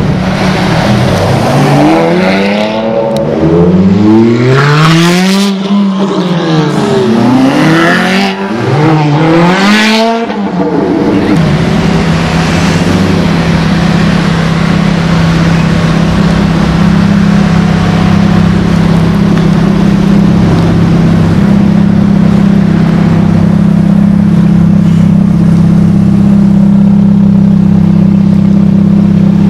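Ferrari 599 GTB's V12 engine revved hard about four times in quick succession, pitch rising and falling with each blip, then settling into a steady idle.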